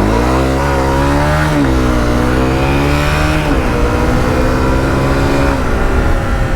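Honda CRF250L's single-cylinder four-stroke engine pulling as the motorcycle accelerates. Its pitch rises and then drops sharply twice, about one and a half and three and a half seconds in, as it shifts up, then runs steadily.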